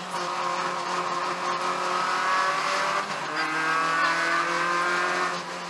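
Peugeot 205 1.9 GTI rally car's four-cylinder engine pulling hard, heard from inside the cabin. Its pitch climbs, drops at a gear change about three seconds in, then climbs again, and eases near the end.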